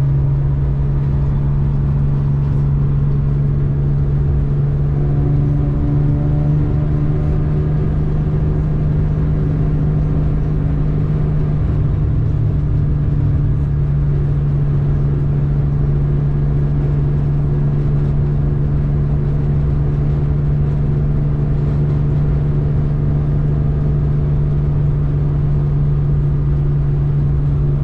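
A BMW E30's engine running steadily at motorway cruising speed, heard from inside the cabin as a constant low drone over road rumble.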